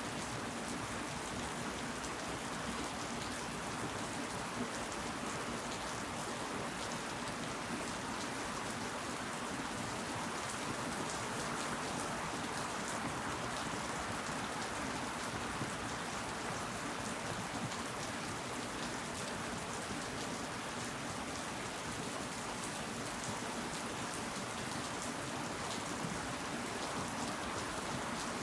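Steady rain falling and pattering on leaves, with many small drop ticks.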